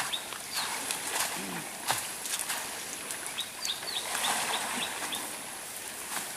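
A small bird calling in a run of short, high chirps, about four a second, near the start and again past the middle, over intermittent rustling.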